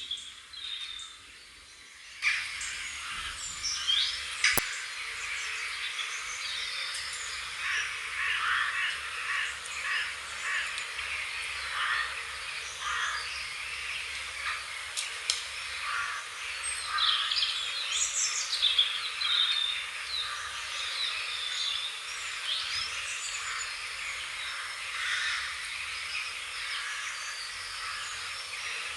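Many small birds chirping and singing at once in a dense, busy chorus, which starts suddenly about two seconds in after a quieter moment. A single sharp click is heard just after it begins.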